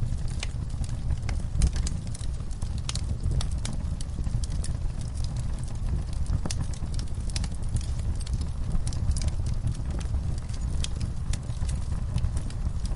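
Wood fire burning in a fireplace: a steady low rumble of the flames with frequent, irregular crackles and pops.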